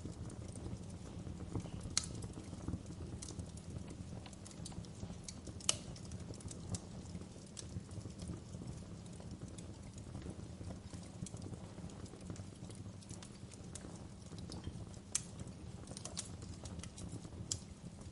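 Fireplace crackling: a steady low rumble of burning with sharp pops and snaps at irregular intervals. The loudest pop comes about six seconds in.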